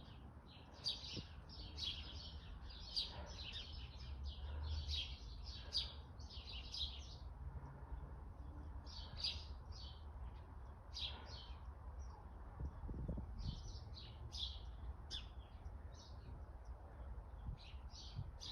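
Small birds chirping: quick clusters of short, high calls with brief pauses between, over a faint low rumble.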